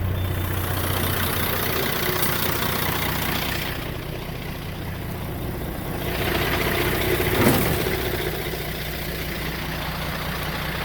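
Heavy diesel truck engine idling steadily, with a short louder sound about seven and a half seconds in.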